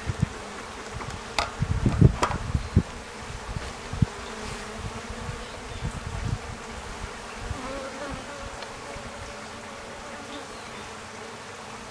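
Honeybees buzzing steadily around an opened top-bar hive. The colony is stirred up and defensive. A few sharp clicks and low knocks come in the first three seconds and once more about four seconds in.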